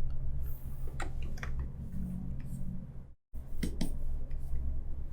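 Computer mouse and keyboard clicking, a handful of sharp separate clicks, over a steady low hum; the sound cuts out completely for a moment about three seconds in.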